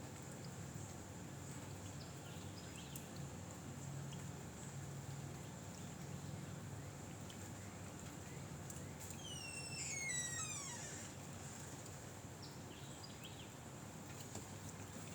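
Steady outdoor background noise with a faint high steady whine. About nine seconds in, one animal call slides down in pitch in wavering steps over about two seconds.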